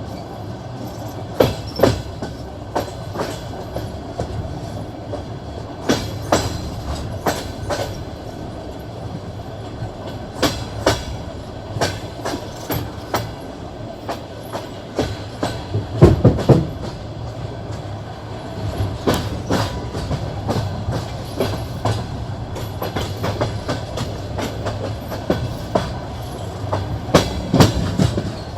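Passenger train wheels clicking over rail joints, a clickety-clack of sharp knocks over a steady rumble, with a loud cluster of knocks about halfway through and again near the end.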